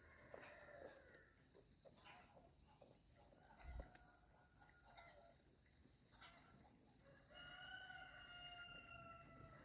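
A rooster crowing once, faint: one long, slightly falling call in the second half. Scattered short fowl calls come before it, over a steady high insect drone.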